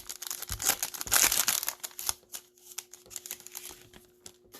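Foil wrapper of a Topps Chrome trading-card pack crinkling as it is torn open and handled, densest in the first two seconds, then thinning to scattered light ticks. A faint steady hum sits underneath.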